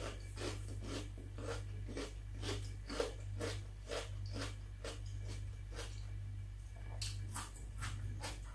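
Close-miked chewing of crisp raw red bell pepper: a steady run of crunches, about two or three a second.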